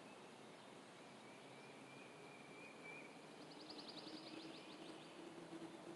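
Near silence: faint outdoor ambience with a thin steady high tone. About halfway through, a faint rapid trill from a bird or insect comes in, and a faint low steady hum joins it.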